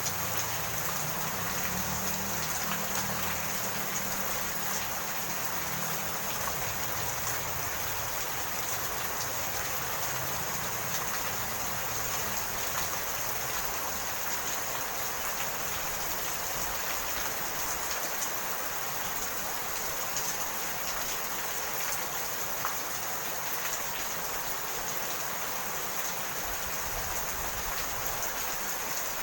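Steady rain falling, an even hiss with scattered drop ticks. A low rumble fades out over the first few seconds.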